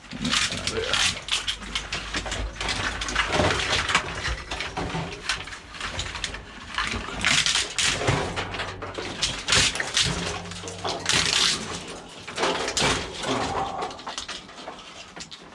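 Rummaging through a pile of scrap metal and cable, pulling out unwanted bits: continual rustling, scraping and irregular knocks and clatters.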